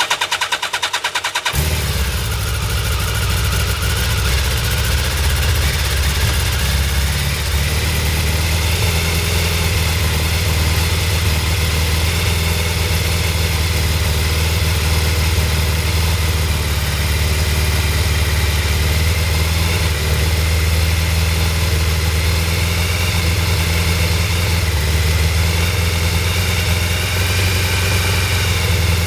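2002 Suzuki Hayabusa's inline-four engine on a cold start: the electric starter cranks briefly, the engine catches about a second and a half in, then idles steadily.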